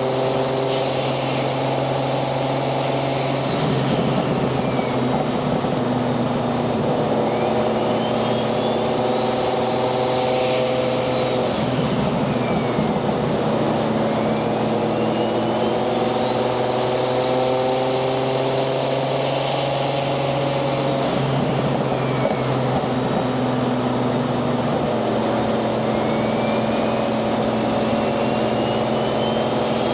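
Nissan 240SX's single-turbo 1JZ VVTi inline-six running on a cruise. A high turbo whistle rises and falls four times over the steady engine note as the throttle is eased on and off.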